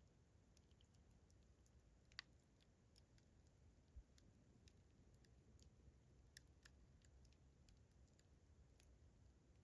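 Faint campfire crackling: scattered, irregular sharp pops and snaps over a low, steady rumble, with one louder pop about two seconds in.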